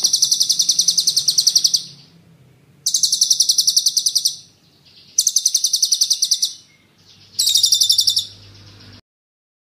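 Songbird singing a sharp, fast rolling trill of rapid repeated high notes, in four bursts separated by short gaps, that cuts off near the end.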